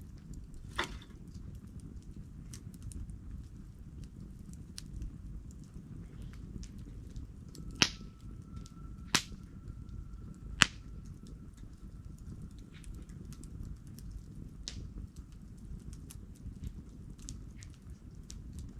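Wood campfire burning: a low steady rush of flame with frequent small crackles, and three loud sharp pops about a second and a half apart in the middle. A faint thin whistle runs for several seconds through the middle.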